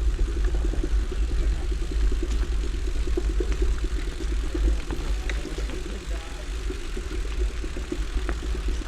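Wind rumbling on the microphone and the bike rattling as it is ridden over a rough trail, with a few faint clicks.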